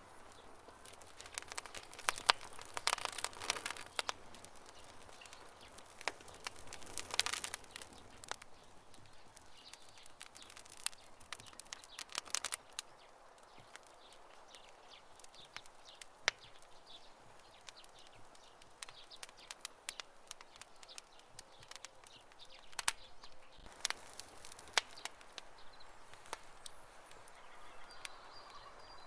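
Campfire crackling: wood popping and snapping in irregular sharp clicks, busier in a few short spells.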